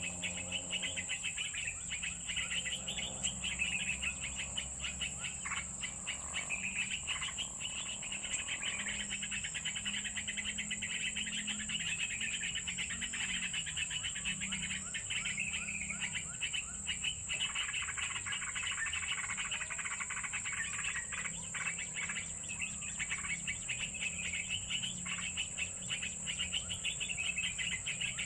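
Steady outdoor chorus of insects chirring in fast pulses, with a continuous high-pitched drone and scattered bird chirps.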